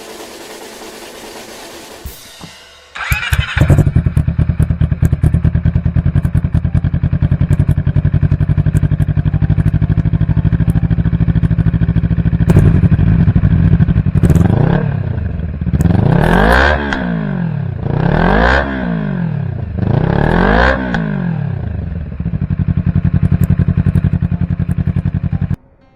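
Honda Grom fitted with a swapped-in CBR250RR parallel-twin engine, running through a homemade exhaust: it is cranked and catches about three seconds in, then idles. It is blipped four times in a row, each rev rising and falling, settles back to idle, and cuts off suddenly near the end.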